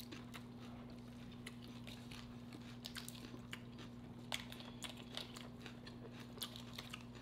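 A person chewing food with faint, irregular wet clicks and crunches, over a steady low hum.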